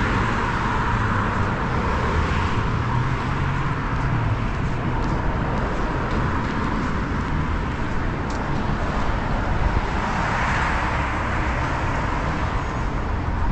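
Road traffic: a steady rumble of vehicle engines and tyres, swelling as vehicles pass at the start and again about ten seconds in.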